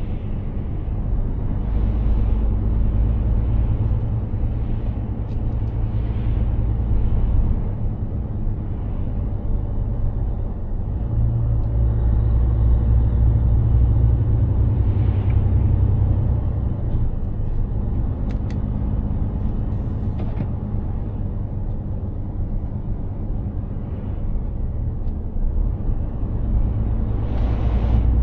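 Mercedes-Benz Actros 2763 truck's 15.6-litre straight-six diesel running on the road with tyre noise, a steady low rumble. The rumble swells louder twice, around two to seven seconds in and again from about eleven to seventeen seconds, then eases off, and rises again near the end.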